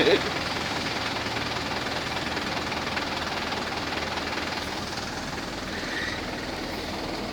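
Steady hiss of a vehicle driving on a wet road in the rain, tyre spray and rain noise with a low engine rumble.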